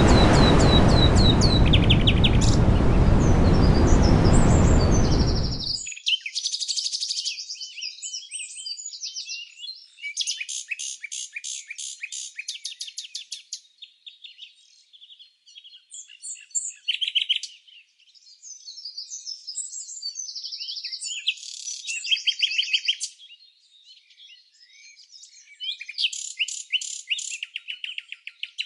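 Songbirds chirping and singing in rapid series of high notes and trills. For the first six seconds the calls sit over a loud steady rushing noise, which cuts off abruptly, leaving the birdsong alone.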